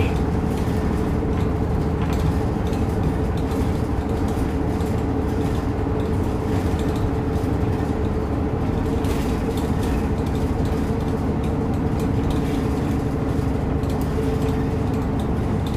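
Route bus running, heard from inside the cabin: a steady low engine and road drone with a constant whine.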